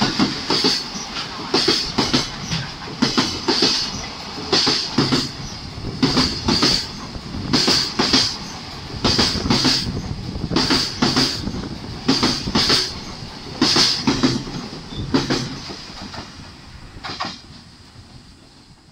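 Container freight train hauled by a red electric locomotive running past over rail joints: a double clickety-clack about every one and a half seconds, as each wagon's pair of wheel sets crosses a joint, over a steady rolling hiss. It fades away near the end as the last wagons go by.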